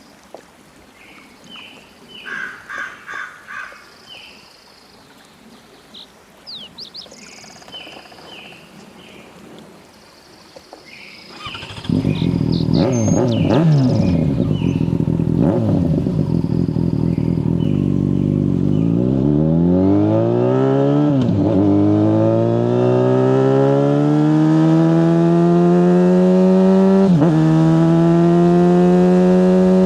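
Birds chirping in quiet surroundings, then the Yamaha FZ6 S's 600cc inline-four comes in abruptly and loud about twelve seconds in. Its pitch falls for several seconds, then climbs steadily as the bike accelerates, with two brief dips at gear changes.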